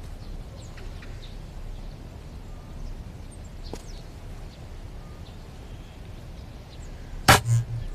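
Faint bird chirps over a quiet outdoor background, then near the end two sharp, loud swishes of a long wooden staff being swung.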